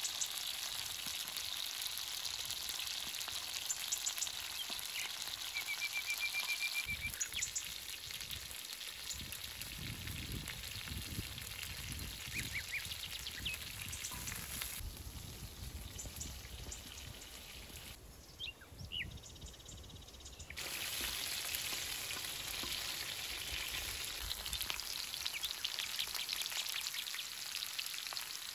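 Food sizzling as it fries on a metal cooking disc: a steady hiss that drops quieter for a few seconds in the middle. Birds call over it, with a short trill about six seconds in and a few chirps later.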